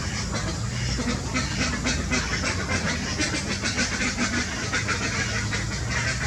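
Birds calling: a dense run of short, rapidly repeated calls over a low steady hum.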